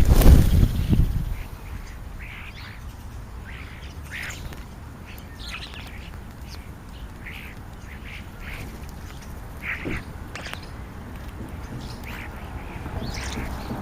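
Wild birds calling, many short separate calls following one another every half second or so. A loud low rumble fills the first second or so.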